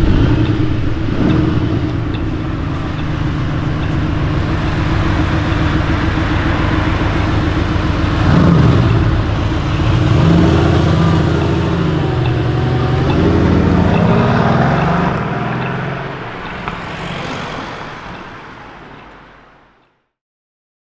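Supercar engine and exhaust accelerating away, its pitch climbing and dropping back several times through gear changes, then fading out and dying away near the end.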